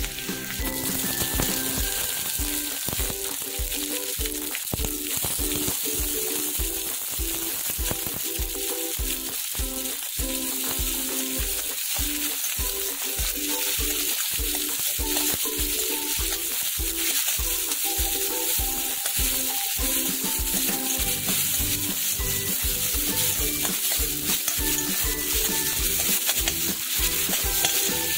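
Onions and tomatoes sizzling as they fry in oil in an iron kadai and are stirred with a steel ladle. Background music with a steady beat plays over it.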